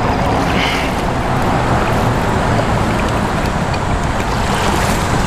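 Loud, steady noise of heavy road traffic on a busy overpass overhead, a constant wash of tyre and engine sound.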